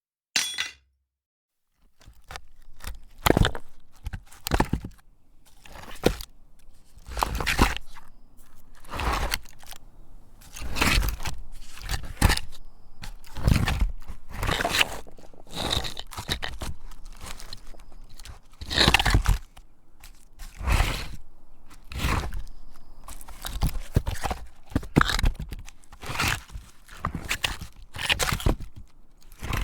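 A single short, sharp hit, then from about two seconds in a long run of crunching, scraping strokes, roughly one a second and uneven in strength.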